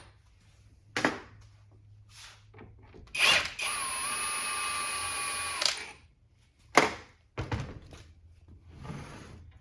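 Cordless impact wrench spinning steadily for about two seconds with a steady whine, without hammering. Sharp metallic clunks of tools and parts come before and after it.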